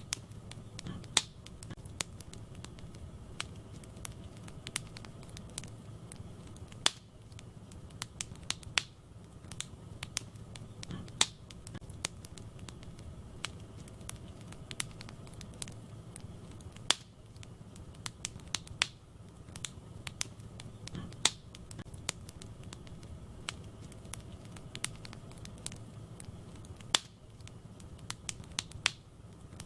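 Wood fire crackling in a fireplace: irregular sharp pops and snaps, a few much louder than the rest, over a steady low rumble of the burning logs.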